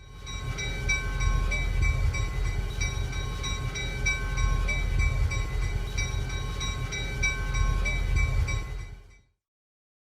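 A train rumbling past a Japanese-style railroad crossing while the crossing bell rings over it in a steady repeating pattern. The sound fades in, then fades out and stops about nine seconds in.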